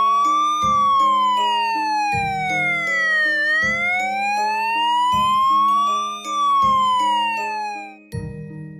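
Police car siren wailing, its pitch rising and falling slowly about three seconds each way, over background music with a steady beat. The siren stops near the end.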